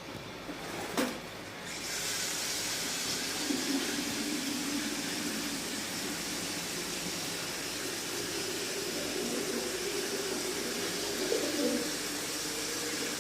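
Pigeons cooing over a steady hiss that starts about two seconds in, after a short click.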